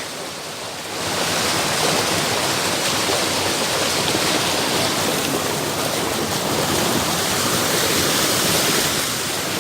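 Fast mountain creek rushing over rocks, a steady dense rush of water that grows louder about a second in and holds.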